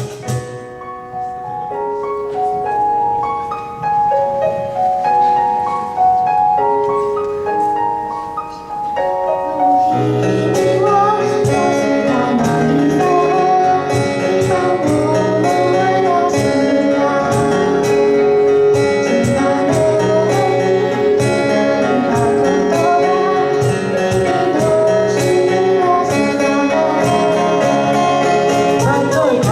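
Live pop-rock band playing. For about the first ten seconds a sparse melody of single notes plays on its own, then drums and the full band come in, louder and fuller.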